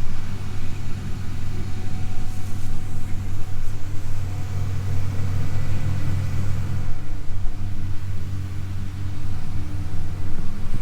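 A heavy engine running at a steady speed, a low even drone.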